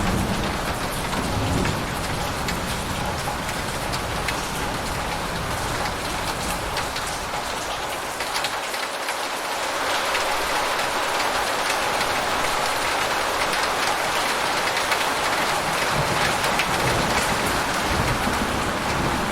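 Steady rain falling, growing a little louder about halfway through, with a low rumble underneath near the start and again near the end.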